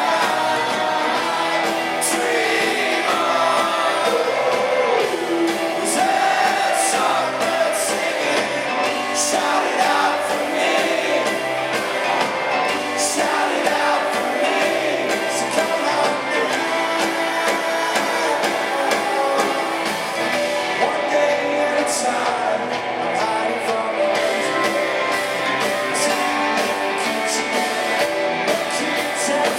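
A live rock band playing a song with a sung lead vocal over guitars and drums.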